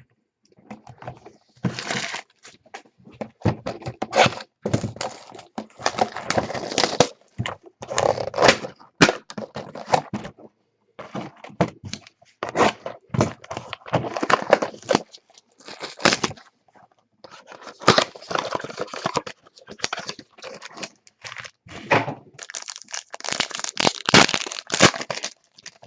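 Trading card packs and cards being handled: repeated crinkly tearing, rustling and sharp cracking sounds in short irregular bursts.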